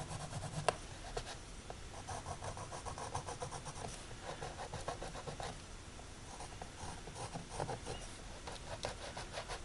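Charcoal pencil scratching over a canvas in many short, uneven strokes as it outlines a drawing, with one sharper tick less than a second in.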